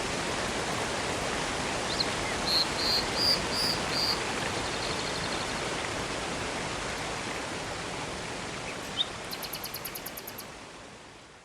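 Steady rush of a river and waterfall, with birds calling over it: a run of about five short clear notes a few seconds in, a single chirp near nine seconds, then a fast rattle of about a dozen notes. The whole sound fades out at the end.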